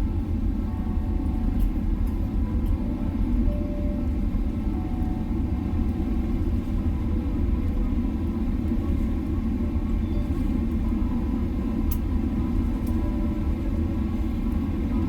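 Steady low rumble inside the cabin of a Boeing 777-300ER rolling on the ground after landing, with a few faint clicks.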